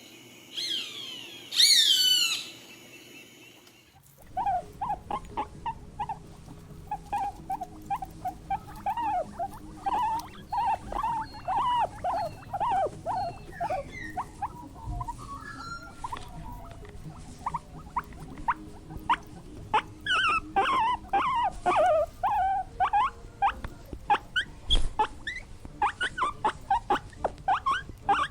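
A few sweeping calls that rise and fall in pitch near the start, then, after an abrupt change, a long run of short high squeaks from small animals, several a second, growing busier near the end.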